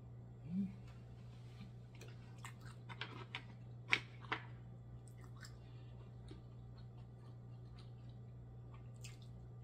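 Close-up mouth sounds of eating steamed black mussels with rice: soft chewing, with a scatter of sharp clicks of mussel shells being picked up, the loudest about four seconds in. A steady low hum runs underneath.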